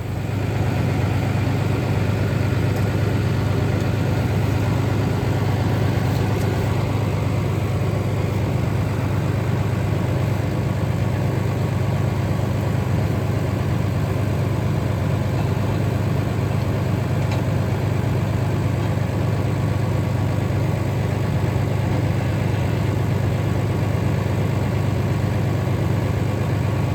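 Tractor engine running steadily at a constant speed, with a strong low hum.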